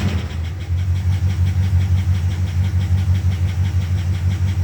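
1973 Rolls-Royce Silver Shadow's 6.75-litre V8 idling steadily just after a cold start, a bit rattly while still cold, which the owner expects to settle down as it warms.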